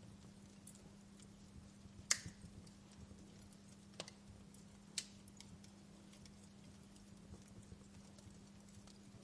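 Wood fire crackling in a fireplace: soft scattered crackles with three sharper pops about two, four and five seconds in, the first the loudest.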